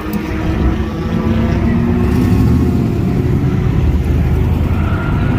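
Car engine running loudly, its pitch rising and falling.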